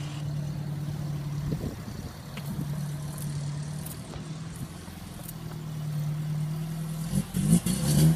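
Mk1 Ford Escort 1300's four-cylinder engine running at low, steady revs as the car drives slowly past, with uneven low rumbles growing louder near the end.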